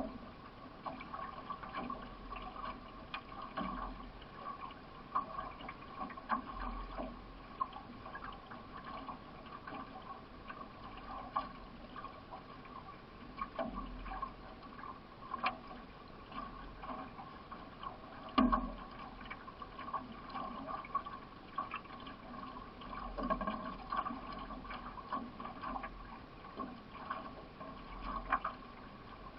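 Paddle strokes and water splashing and trickling around a solo racing canoe underway, with a few sharp knocks, the loudest a little past halfway.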